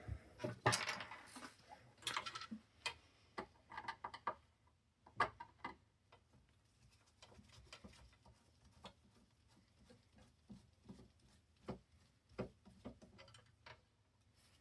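Scattered light clicks and taps of a screwdriver and the plastic parts of a CD changer being handled as a screw is taken out. They come thickly in the first few seconds and thin out to occasional ticks later.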